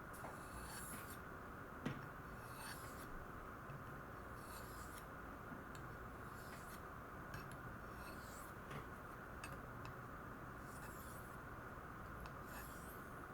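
Spyderco Stretch's ZDP-189 steel blade stroked across a lapped Spyderco ultrafine ceramic stone: faint, light scraping strokes, roughly one a second, over a steady faint hum.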